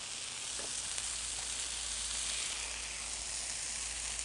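Diced bell peppers and onions sautéing in a skillet, a steady sizzle.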